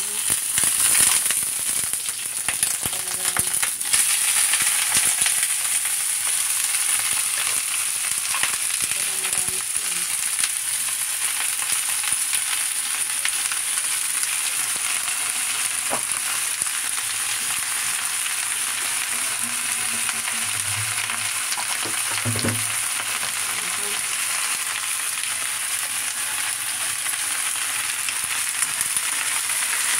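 Chopped chilies and then napa cabbage frying in hot oil in a wok: a loud sizzle that jumps up about a second in and again about four seconds in, then runs on steadily as the cabbage is stirred.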